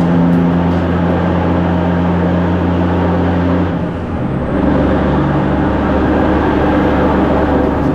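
Heavy truck's diesel engine running steadily under way. About four seconds in it dips briefly and comes back at a different pitch, as in a gear change.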